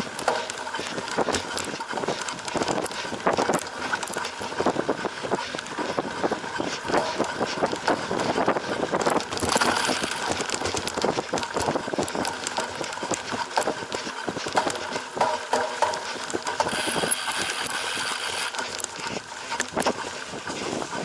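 Cyclocross bike ridden over rough off-road ground: a continual, irregular rattling and knocking from the bike, with tyre noise.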